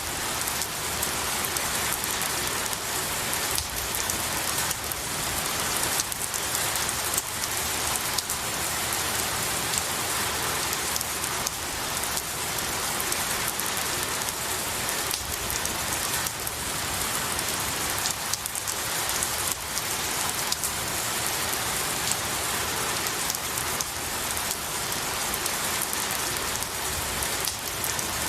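Steady rain falling on pine needles and trees, a constant hiss of rainfall with many separate drops pattering through it.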